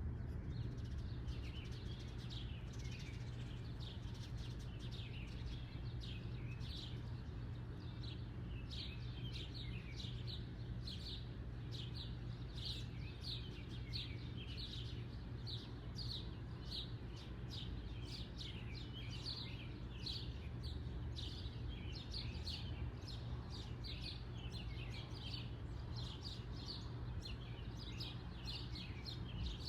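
Small birds chirping continuously, about two short downward chirps a second, over a steady low hum.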